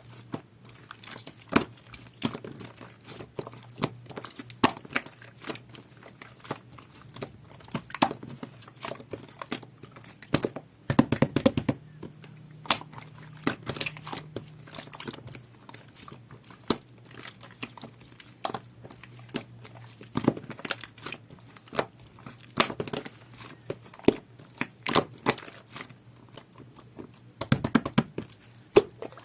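Jelly-textured slime being squished and poked by hand, giving a string of sticky pops and crackles that come in denser runs about eleven seconds in and again near the end, over a faint steady low hum.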